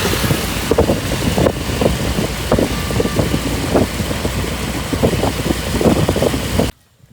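Vehicle on the road, heard from on board: steady road and engine noise with frequent short knocks and rattles. It cuts off abruptly near the end.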